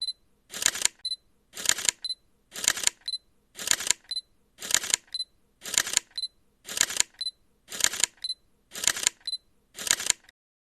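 Camera shutter sound effect, fired ten times about once a second, each shot followed by a short high tone.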